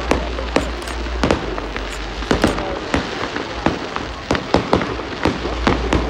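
Fireworks display: aerial shells bursting in a steady run of sharp bangs and crackles, about three a second.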